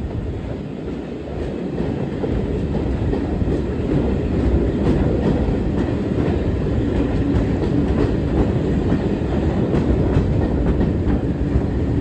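Heritage railway passenger train running along the track, heard from inside the carriage: a steady rumble, with the wheels clicking over the rail joints. It grows a little louder about two seconds in.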